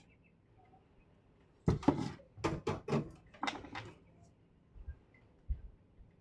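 A quick run of sharp clacks and knocks, about seven in two seconds starting near two seconds in, with a couple of fainter knocks a little later: hard objects such as tools or parts being handled and set down on a workbench.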